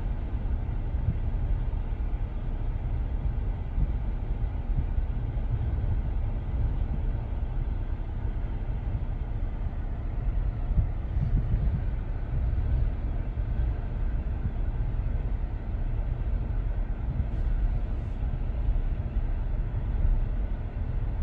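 Long CSX freight train rolling past, a steady low rumble of its cars' wheels on the rails.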